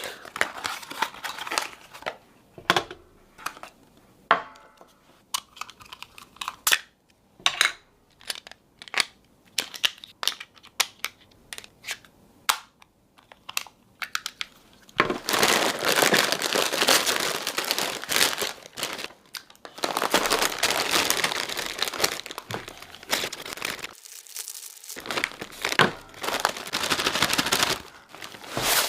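Crinkling and crackling of packaging being handled and torn. Scattered sharp cracks come first, then about halfway through a long stretch of dense crackle, with a brief pause before more crackling near the end.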